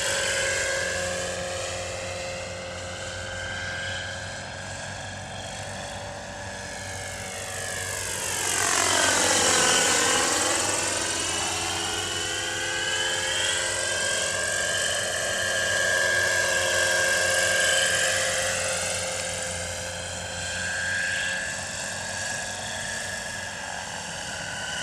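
Kalt Baron Alpha RC helicopter flying on its four-stroke engine, engine and rotor running steadily. About eight seconds in it comes close and grows louder, its pitch swinging down and back up, then it moves off again.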